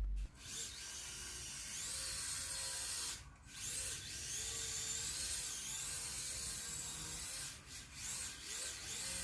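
AGFRC A11CLS V2 steering servo on a mini RC drift car whining as it sweeps the steering back and forth, its pitch rising and falling, with short pauses between sweeps.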